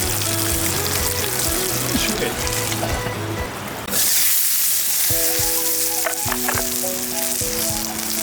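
Steak sizzling in a cast-iron skillet, the sizzle growing louder about four seconds in, with background music playing steady held notes.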